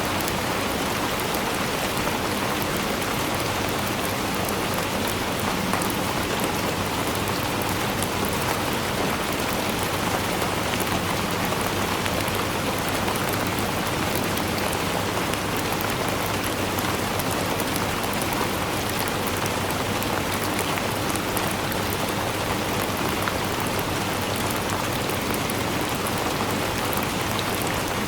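Steady rainfall, a dense even patter of many drops striking a surface, with no let-up or change.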